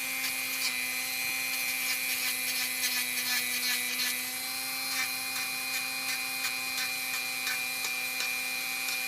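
Dremel rotary tool running at a steady high speed, grinding down a dog's nail, with faint scratching as the bit works the nail.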